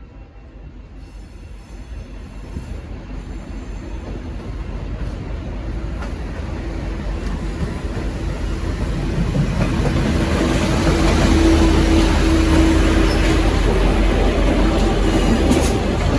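V/Line N class diesel-electric locomotive running in with its train, the engine rumble and rolling noise growing steadily louder as it approaches and passes. A steady droning tone joins in about halfway through.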